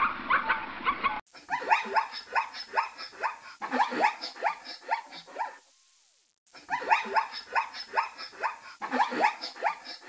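Zebra calling: a rapid run of short, barking yelps, each falling in pitch, starting about a second in. It breaks off for a moment and the same run comes again.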